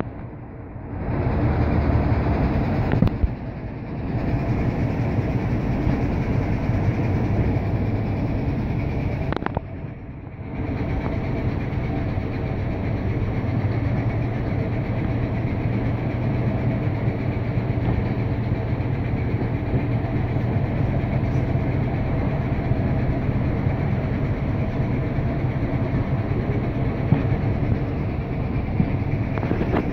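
Heritage railway train running slowly, heard from a carriage window: a steady low engine hum over wheel and carriage rumble, dipping briefly about three seconds in and again near ten seconds.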